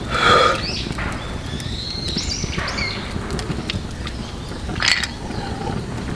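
A few short chirping calls of small birds over a steady low outdoor rumble. There is a brief louder sound right at the start and another short sharp one about five seconds in.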